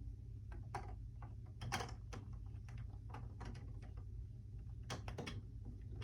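Plastic Lego pieces being handled and fitted back together: scattered small clicks and taps, with a few sharper clicks about two seconds in and again near five seconds, over a low steady hum.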